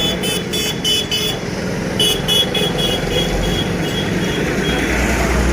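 Street traffic with a low rumble, broken by two runs of rapid high-pitched beeping, about five or six beeps a second: one at the start and another from about two seconds in.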